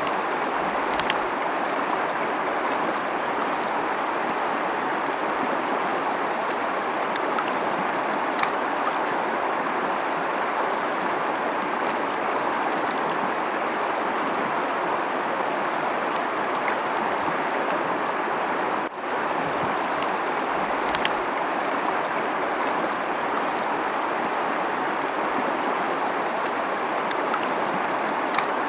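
Fast-flowing river rushing over rocks: a steady, even water noise with a few faint ticks, dipping briefly about two-thirds of the way through.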